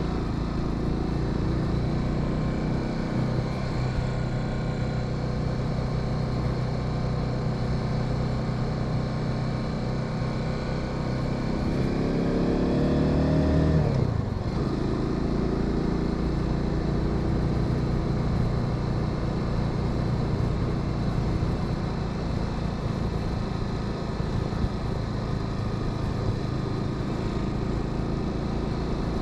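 Motorcycle engine running under way with road and wind noise; about eleven seconds in the revs climb for a few seconds, then drop suddenly about fourteen seconds in, as with a gear change or closing the throttle, and the engine settles back to a steady pull.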